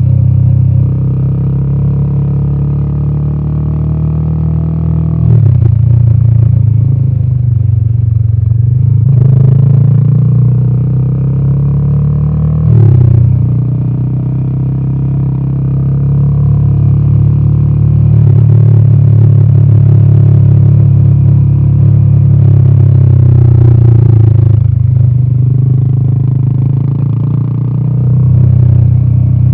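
Royal Enfield Himalayan 450's single-cylinder Sherpa 450 engine running through its exhaust at a steady road pace, its deep note dipping and recovering a few times as the throttle changes.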